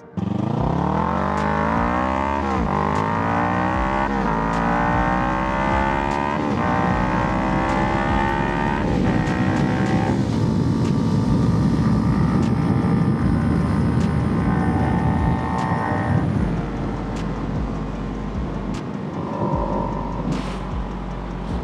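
Kawasaki Ninja 300 parallel-twin engine accelerating hard through the gears, its pitch climbing and dropping back at each of about five upshifts in the first ten seconds. It then holds a steady speed with a rushing noise over the engine, easing off near the end.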